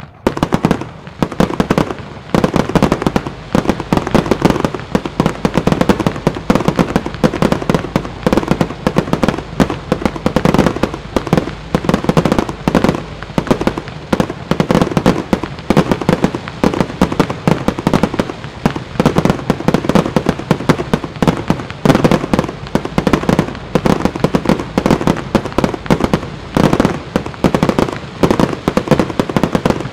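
A fireworks display: a dense, continuous barrage of aerial fireworks bursting, many bangs a second, beginning abruptly and keeping up without a break.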